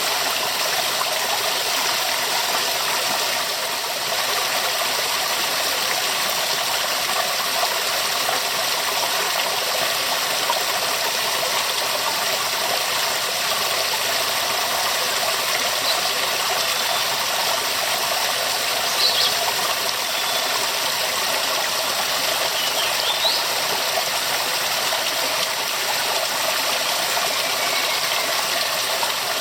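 Waterfall: water falling and splashing in a steady, dense rush that holds an even level throughout. A few faint short chirps sound above it around the middle.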